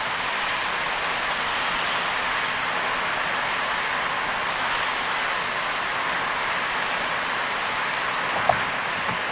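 Heavy rain pouring on a moving car, mixed with the steady hiss of tyres on a flooded road. One short sharp tick about eight and a half seconds in.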